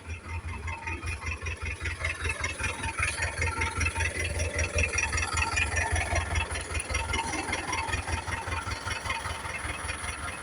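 Truck engine running with a rapid, even beat and a rattle, getting a little louder about three seconds in.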